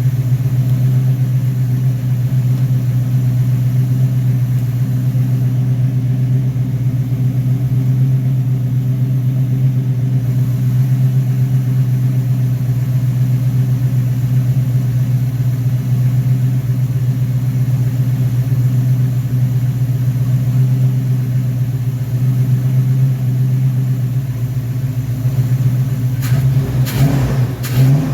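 Car engine running steadily on a freshly rebuilt Rochester Quadrajet four-barrel carburettor, with a brief rev near the end.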